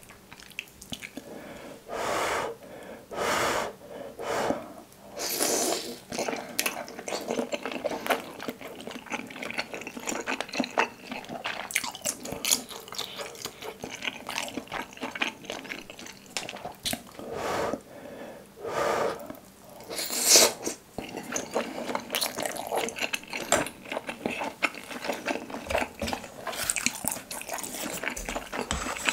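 Close-up chewing of soft, wet skewered fish cake (eomuk) dipped in soy sauce: moist squishing and clicking mouth sounds. Several short breathy sounds come through it, the loudest a little past two-thirds of the way in.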